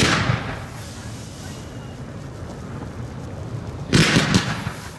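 Fireworks fired from close by: a volley of launch bangs at the start with a hiss trailing off, then a second volley of several bangs about four seconds in.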